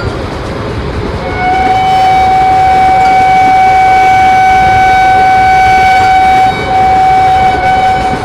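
Train horn sounding one long, steady note for about seven seconds, with a brief break near the end, over the rumble of a passing train.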